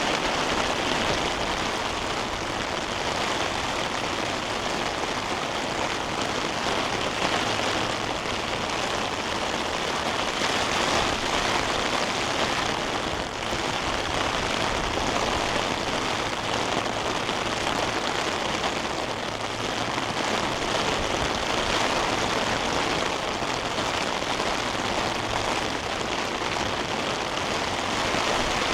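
Heavy rain falling steadily, a dense, even hiss of raindrops.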